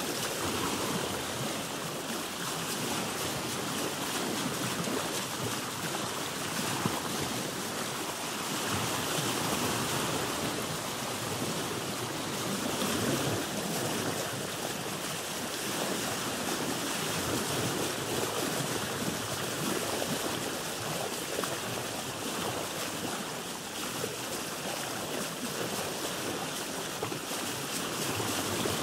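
Sea water washing around a boat: a continuous wash of waves that swells and eases gently every few seconds.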